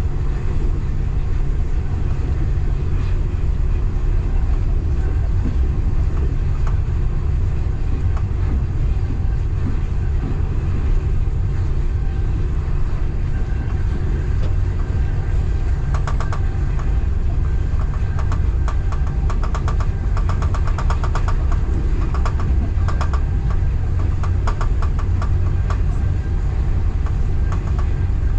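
Steady low rumble of a local train, with bursts of rapid rattling clicks from about halfway through.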